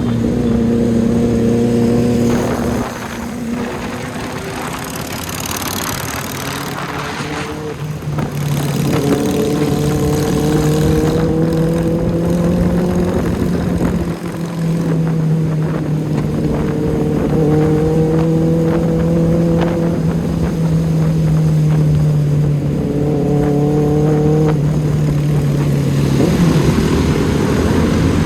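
Benelli 600i inline-four motorcycle engine running very loud in a tunnel. Its pitch climbs slowly, then drops back sharply several times.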